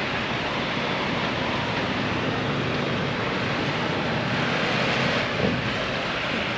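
Steady city street ambience: a continuous wash of traffic noise at an even level.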